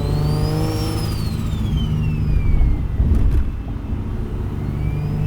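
Single-turbo Infiniti G37's VQ37 V6 running under way, with a high turbo whistle that rises, falls away, then rises again near the end as boost builds and drops. A brief rush of noise comes about three seconds in.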